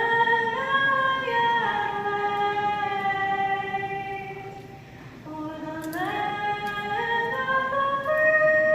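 Music: a slow melody of long held notes sung by a voice or choir, moving from pitch to pitch every second or so, with a brief pause near the middle.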